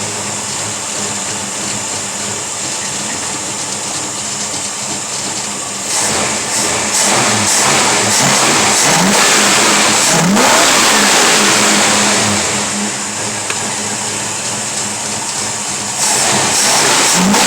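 Chevy 383 stroker small-block V8 (400 block with a 350 crankshaft) running on its first start in over two years. Its revs rise about six seconds in, ease back later, and rise again near the end.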